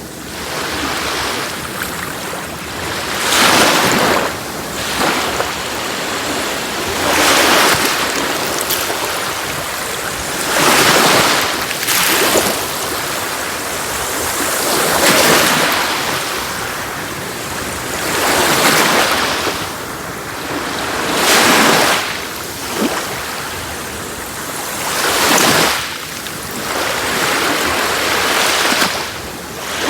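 Sea waves breaking on a shore: a wash of surf that swells and falls back about every three to four seconds.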